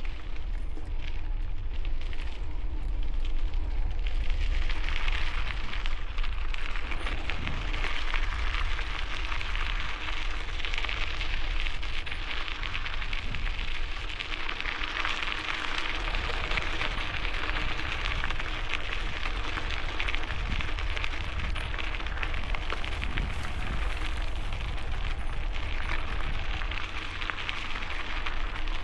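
Bicycle tyres crunching steadily over gravel, a continuous dense crackle, over a low rumble of wind on the microphone.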